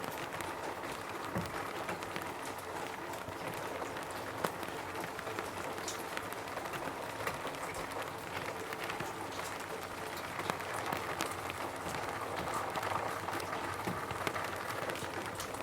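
Steady rain falling on a roof, a dense patter with scattered louder individual drop ticks.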